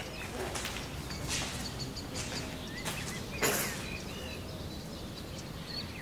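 Small birds chirping now and then over a steady outdoor background hum, with a few brief swishing sounds, the loudest about three and a half seconds in.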